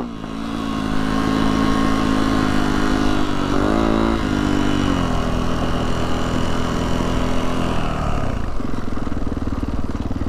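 Yamaha YZ450F dirt bike's four-stroke single-cylinder engine running under way, with a brief rise and fall in revs about four seconds in and settling to a lower pitch near the end.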